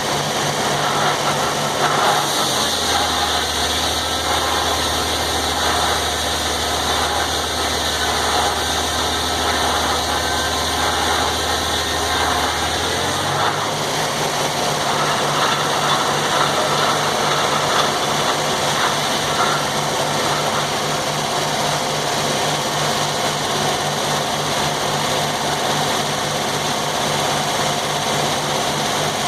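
Sawmill engine running steadily. About two and a half seconds in, its pitch drops and it runs lower for about ten seconds with a brighter hiss above it, then climbs back to its former speed and runs steady.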